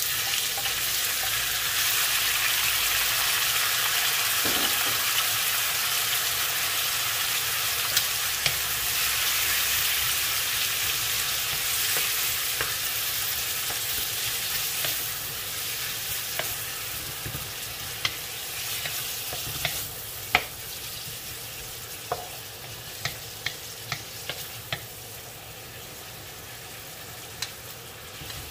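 Tomatoes, onion, garlic and ginger sizzling in hot oil in a metal wok while a wooden spatula stirs them. The sizzle is strongest after the tomatoes go in and slowly dies down. Sharp clicks of the spatula against the wok come more often in the latter half.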